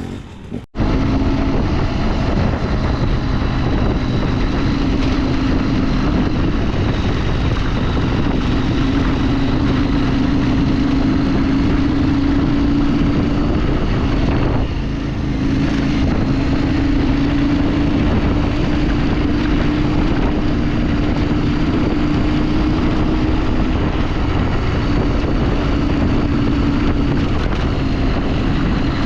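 Motorcycle engine running at a steady speed while riding, with wind on the microphone. The engine note dips briefly about halfway through, then carries on at the same pitch.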